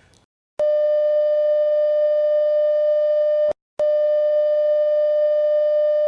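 Broadcast interruption alert tone: a steady, buzzy, mid-pitched electronic beep sounded twice, each about three seconds long with a short break between, starting about half a second in.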